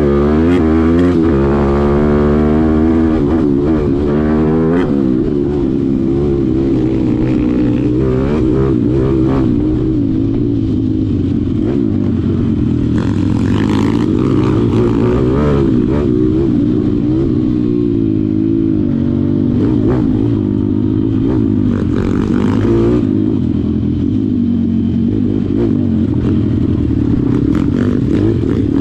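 Malcor XM 160 pit bike's single-cylinder four-stroke engine running hard, its pitch rising and falling repeatedly as the throttle is worked.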